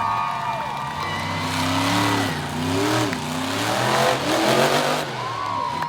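Monster truck engine revving up and down several times over a steady low running note, with a high whine that rises and holds near the start and again near the end.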